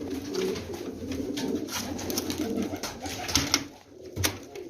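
Domestic pigeons cooing in a low, continuous warble, with a few sharp taps and clicks.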